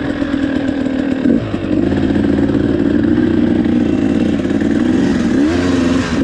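KTM 300 two-stroke dirt bike engine running under load while riding a trail. It holds steady revs, then the pitch climbs near the end as the throttle opens.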